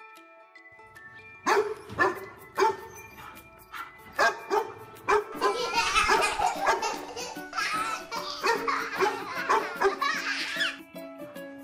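Cheerful music with chiming tones, joined about a second and a half in by a sharp, even beat; from about five seconds in, a dog barks repeatedly over it until shortly before the end.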